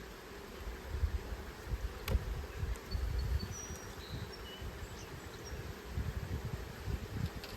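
Honey bees buzzing around an opened hive, with an uneven low rumble beneath and a single sharp click about two seconds in.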